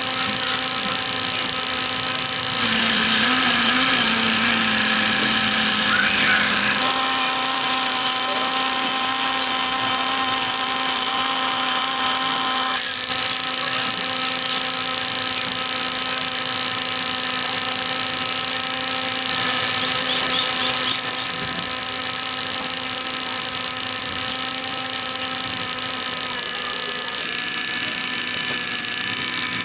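Small electric motors of a homemade miniature tractor and chaff cutter model running with a steady whine. The whine gets louder about two and a half seconds in, its tone shifts a little around seven and thirteen seconds in, and it eases off slightly about twenty-one seconds in.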